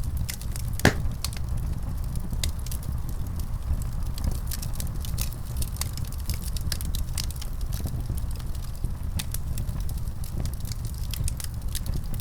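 Wood fire crackling in a fireplace: a steady low rumble of flames under frequent sharp pops and snaps, with one louder pop about a second in.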